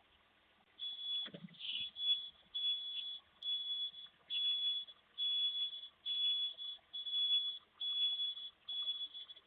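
Reversing alarm of a garbage truck beeping steadily, about one high beep a second, while the truck backs up in the snow. A brief low rumble comes in just after the beeping starts.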